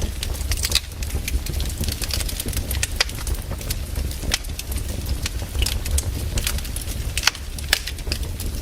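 Burning firewood crackling, with irregular sharp snaps and pops over a steady low rumble.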